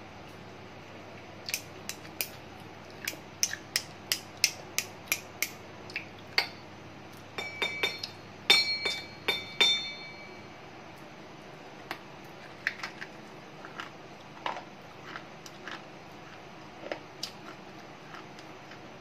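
Slate pencil being bitten and chewed: a quick run of sharp, crisp crunches, a couple a second, with a brief high squeaky ring in the middle, then sparser crunches in the second half.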